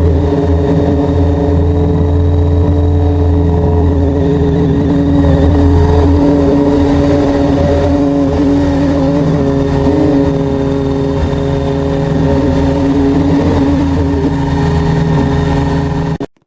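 Loud, steady mechanical hum made of several fixed tones, with no change in pitch. It cuts off abruptly near the end.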